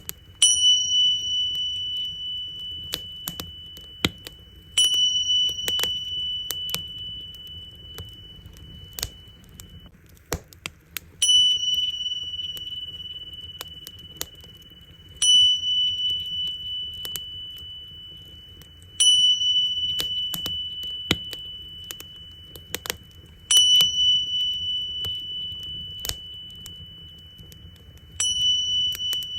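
Tingsha cymbals struck seven times, about every four to five seconds, each strike a clear high ring that fades slowly. Underneath, a campfire crackles with scattered sharp pops.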